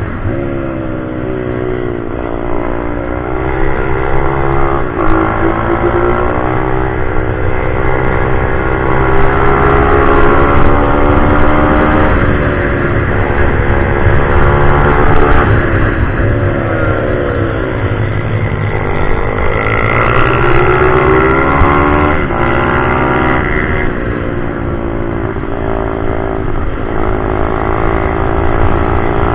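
Pit bike's small single-cylinder four-stroke engine being ridden hard, its pitch repeatedly climbing through the revs, breaking at shifts and dropping back.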